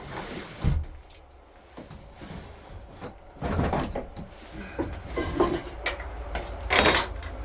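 Things being handled and moved about while searching for a spray can: scattered knocks and clatters, the loudest a short sharp metallic clank near the end.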